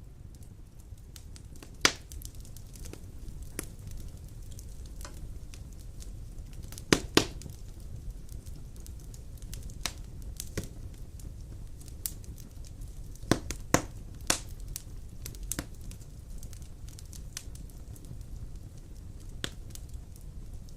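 Wood fire burning in a stone fireplace: a low steady rumble of flames with irregular sharp crackles and pops, a few louder snaps about two seconds in, around seven seconds and around fourteen seconds.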